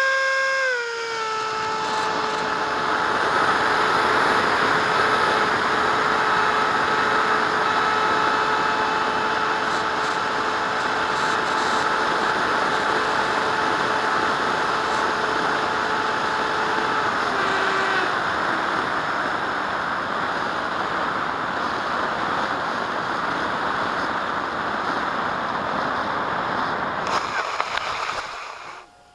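Electric ducted fan RC jet running: a whine with several tones over a loud rush of air. The whine steps down in pitch about a second in, holds steady, then drops out about two-thirds of the way through while the air rush carries on. The sound cuts off sharply near the end.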